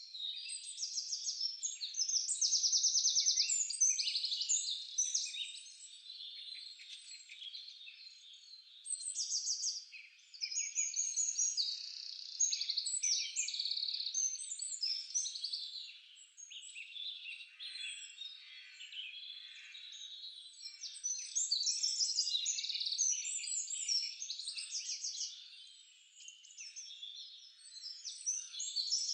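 A chorus of small forest songbirds singing, with many overlapping high chirps and fast trills that swell and fade in waves.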